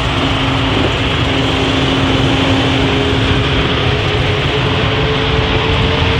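Airplane engine noise: a steady, loud rush and rumble, with a faint tone that slowly rises in pitch.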